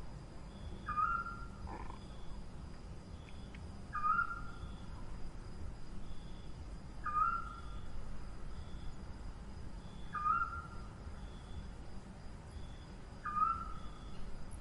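Screech owl calling five times, about three seconds apart: each call starts on a short higher note and drops into a held, slightly wavering tone lasting about a second.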